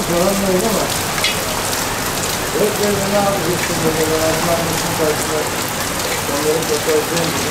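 Heavy rain pouring steadily onto a street and pavement in a downpour.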